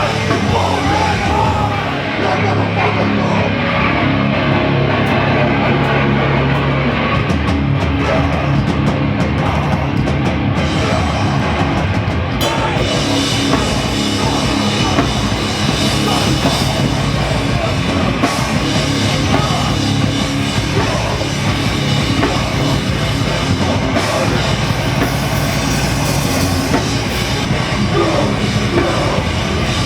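Loud heavy rock music with a full drum kit, in a hardcore punk style, running without a break.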